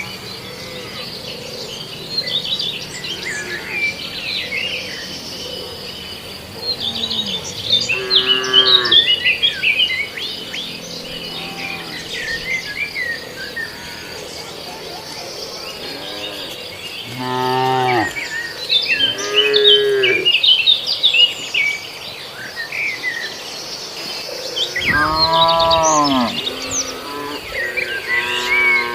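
Cattle mooing, several long calls spread through the stretch, with birds chirping and a steady insect buzz behind.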